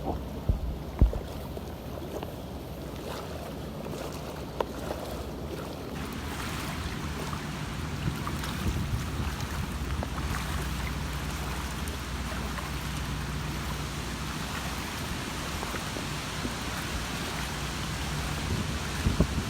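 A rescue boat's outboard motor runs steadily with a low hum, and wind and water noise swell up about six seconds in. There is a sharp knock about a second in.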